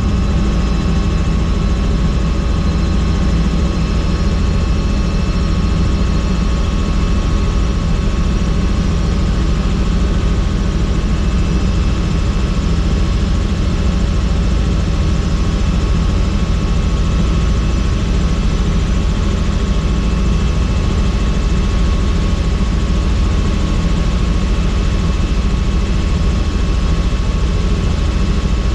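Helicopter in flight heard from on board: steady, loud rotor and engine noise with a few constant high-pitched tones over a deep rumble.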